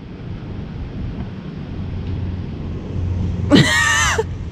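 A low, steady engine rumble, slowly building, with a short high-pitched squeal lasting under a second about three and a half seconds in.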